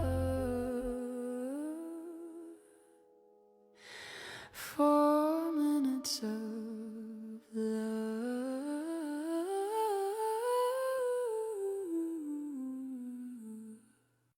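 Wordless humming melody closing an AI-generated Suno song, moving in steps from note to note. It breaks off briefly about three seconds in, a short breathy noise comes around four to five seconds in, and the humming then resumes and stops just before the end.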